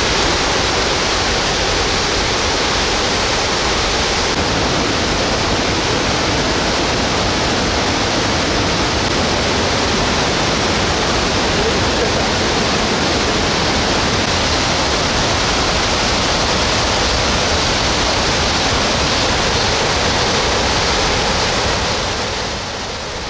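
A large waterfall in heavy flow after days of rain: a loud, steady rush of falling water that eases a little just before the end.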